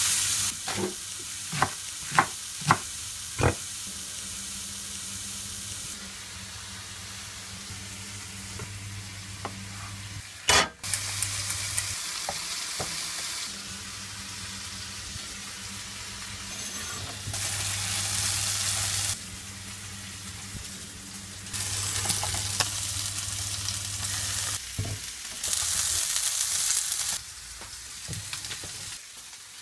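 Chicken strips sizzling on a hot griddle pan: a steady frying hiss that swells louder in several stretches, over a low steady hum. A few sharp knocks sound in the first few seconds, with a louder one about ten seconds in.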